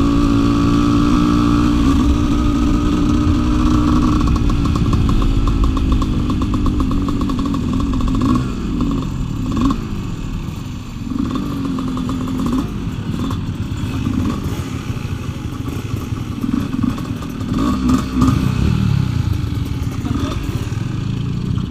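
Dirt bike engine running under way, heard from the rider's helmet camera: steady revs at first, then rising and falling again and again as the throttle is opened and closed and the bike slows.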